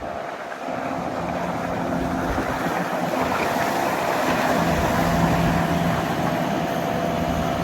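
Motorboat engine running steadily as a boat passes, its hum getting slightly louder toward the middle, over a hiss of wind and water.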